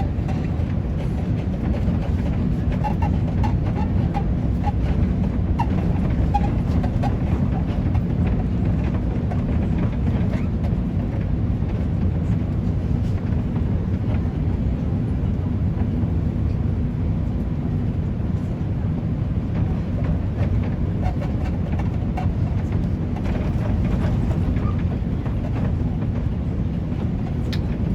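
Steady low cabin rumble of an Airbus A350 in flight: airflow and engine noise heard from inside the passenger cabin.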